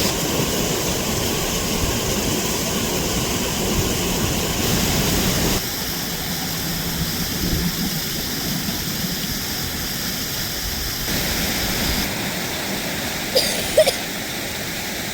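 Steady rush of a river running high after rain, a continuous watery noise that shifts in tone abruptly a few times. Two short sharp sounds come near the end.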